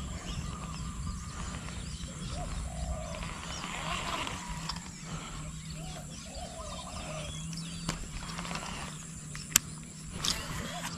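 Birds chirping and calling over a low steady hum, with a sharp click and a short rustle near the end.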